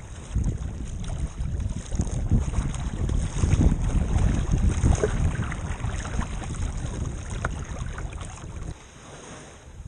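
Wind buffeting the microphone over splashing water on rough open water, easing off near the end.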